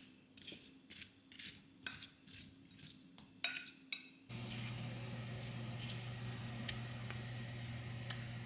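Metal utensils clinking against dishes, a series of light strikes with one louder clink about three and a half seconds in. A little over four seconds in, this cuts to a steady low electrical hum.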